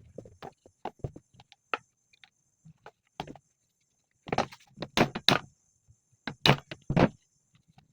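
Irregular knocks and clatter from tools and parts being handled, with a run of louder knocks a little past halfway.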